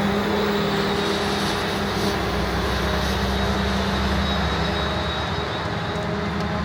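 Claas Jaguar 970 forage harvester running steadily under load while chopping rye, its MAN diesel engine and cutting drum making a continuous machine noise. About two seconds in, the low engine note shifts a little.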